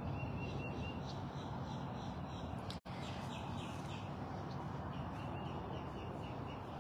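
Outdoor ambience of a steady low rush, with small birds chirping faintly in quick runs of short notes now and then. The sound cuts out for an instant nearly three seconds in.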